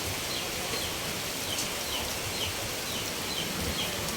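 Steady hiss of water and rain, over which a bird gives a run of short, falling high chirps, about two to three a second.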